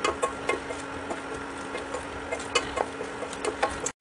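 Cashew nuts shallow-frying in hot oil in a stainless steel pan, being stirred: scattered irregular crackles and pops over a steady low hum.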